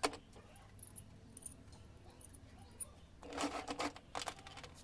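Clicks and rattles of hand work: one sharp click at the start, then a burst of clicking and rattling a little past three seconds in.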